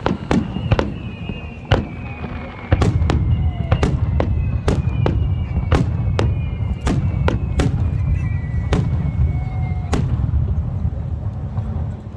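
Fireworks going off: a rapid, irregular string of sharp bangs, with several whistling shells sliding slowly down in pitch and a low rumble underneath from about three seconds in.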